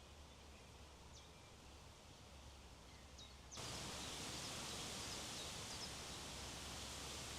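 Wind blowing across an open hilltop, with a few faint bird chirps. About three and a half seconds in, the wind noise jumps suddenly louder and stays up.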